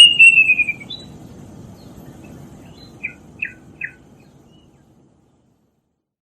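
Plaintive cuckoo (kedasih) whistling: one clear note, then a quick run of notes falling in pitch that fades out within the first second. Three faint short notes follow about three seconds in, then the sound cuts to silence.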